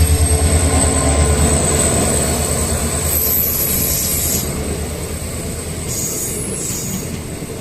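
MEMU electric passenger train rolling along the track with a low, pulsing rumble and high-pitched wheel squeal, gradually growing fainter.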